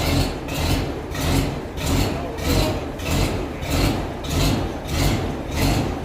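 Oliver tractor engine idling slowly, an even beat of about two pulses a second over a low rumble.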